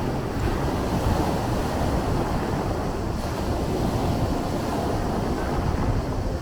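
Sea waves washing and surging in a continuous low rush of surf, swelling slightly about a second in.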